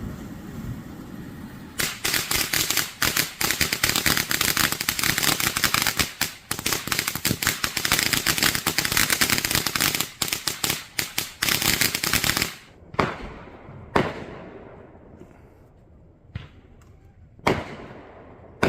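Backyard consumer fireworks going off: a fast, dense run of crackling pops for about ten seconds, then a handful of separate bangs a second or two apart.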